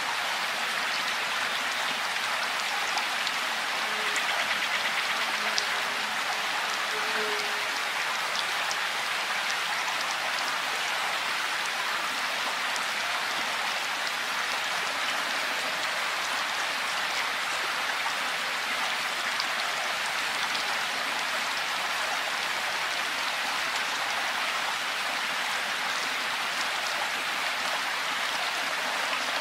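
Steady rain falling, an even hiss with scattered individual drops ticking against surfaces.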